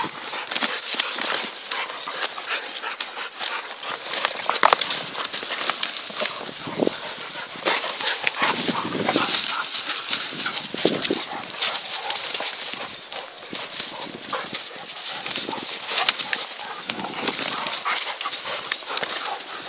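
Shepherd dogs attacking a wild boar: irregular growls, scuffling and thuds as they tear at it. A steady high hiss runs underneath.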